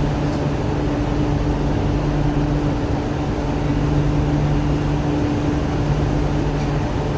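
Inside an MTR Island Line Q-Train metro car running through the tunnel: a steady rumble of wheels and rails with an unchanging low hum from the train's equipment.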